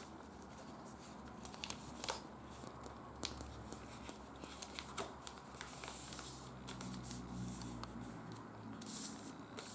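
Faint rustling and scattered light ticks of a paper sheet being handled and creased flat during origami folding, over a low steady hum.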